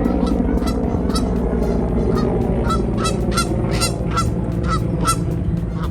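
A flock of geese honking, with about a dozen short calls coming roughly two a second, over a steady low rumble.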